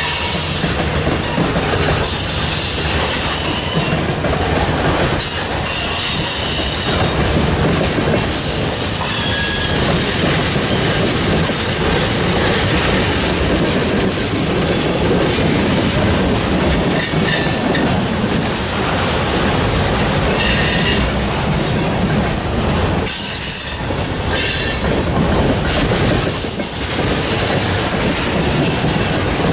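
Freight train cars rolling past with a steady rumble and rail clatter. The wheels squeal in high-pitched bursts that come and go every few seconds.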